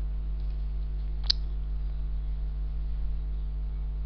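Steady electrical mains hum with its overtones on the recording, with a single short click about a second in.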